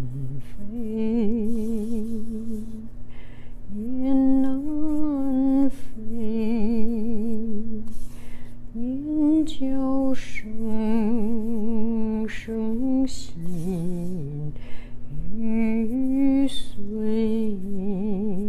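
A woman humming a slow, wordless melody, holding long notes with a wavering vibrato.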